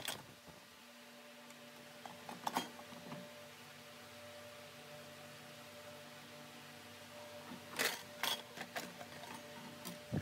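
A few sharp metallic clicks and clinks from handling a sliding mitre saw's blade guard and arbor while its circular blade is taken off by hand, the loudest pair about eight seconds in, over a steady low hum.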